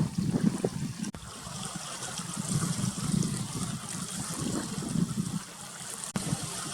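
Small waves lapping and trickling at the water's edge, uneven and splashy, with a steady hiss above.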